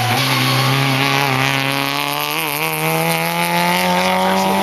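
Rally car engine under hard acceleration, its pitch climbing steadily as it is held flat out through one long gear, with a brief wobble about halfway.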